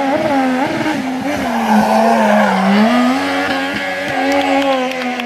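Race car engine at high revs through a slalom, its pitch rising and falling as the driver lifts and gets back on the throttle. Tyres squeal and scrub for about a second, around a second and a half in.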